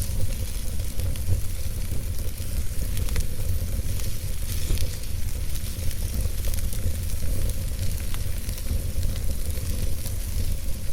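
Wood fire burning in a fireplace: steady hissing with many small crackles and pops over a low rumble.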